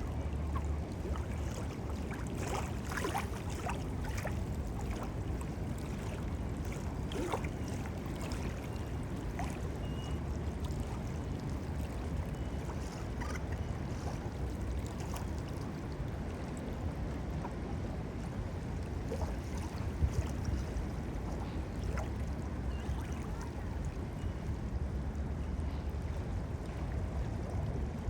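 Steady wind buffeting the microphone in a low rumble, over small waves lapping, with a few faint ticks and splashes.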